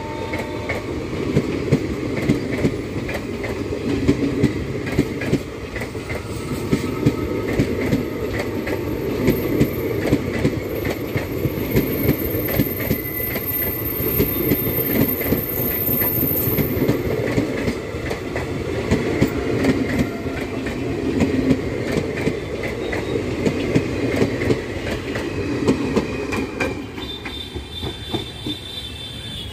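Passenger coaches of an Indian Railways express train passing close by: a continuous rumble with rapid clickety-clack of the wheels over the rail joints. It drops off near the end as the last coach goes by.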